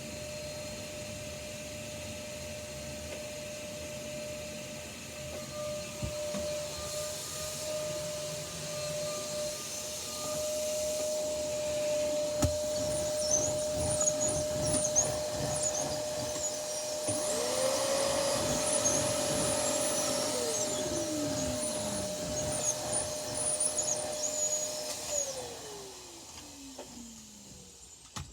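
Vacuum cleaner motors. One runs with a steady whine and is switched off near the end, its pitch falling as it winds down. A second machine is switched on partway through, runs for a few seconds, then is switched off and winds down.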